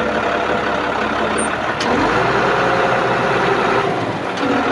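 Boom truck engine running while its hydraulic outrigger jacks are worked to level the truck; the engine note changes about two seconds in and again near the end.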